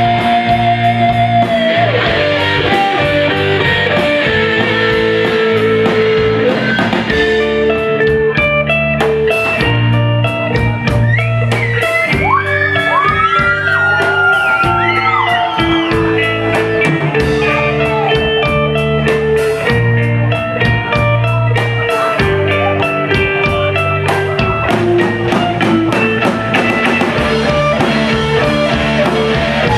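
Instrumental break of a rock song: a guitar plays a lead line over bass and drums, with bent, gliding notes about twelve seconds in.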